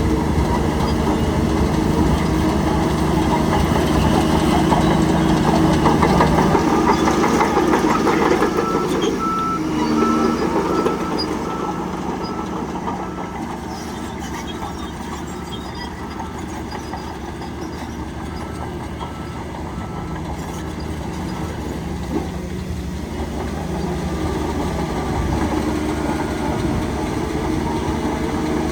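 Heavy diesel engine of a working bulldozer running steadily, louder for the first ten seconds or so and then easing back. A reversing alarm beeps repeatedly for a few seconds about nine seconds in.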